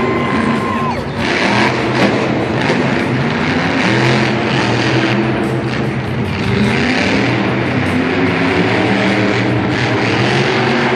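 Monster truck engine revving repeatedly, its pitch rising and falling, over a dense wash of arena noise.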